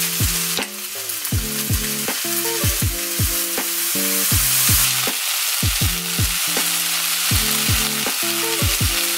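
Vegetable fried rice sizzling loudly in a hot frying pan as soy sauce is poured in and the rice is stirred. A steady crackling hiss, with a music beat underneath.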